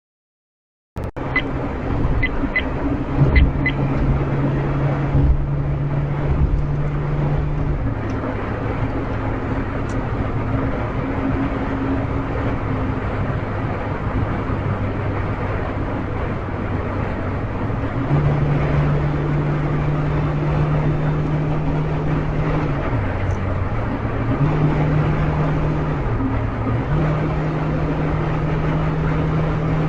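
Car engine and road noise at highway speed, heard from inside the cabin, starting about a second in. The engine note drops once, rises later and dips briefly twice near the end. A few light clicks come in the first few seconds.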